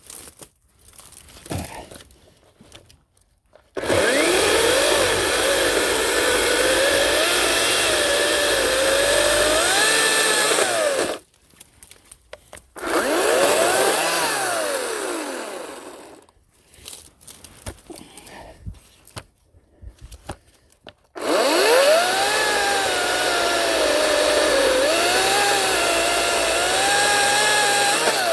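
Ryobi 40-volt 18-inch cordless electric chainsaw cutting through wood in three runs, the middle one short and spinning down; the motor's pitch sags and recovers as the chain bites into the log.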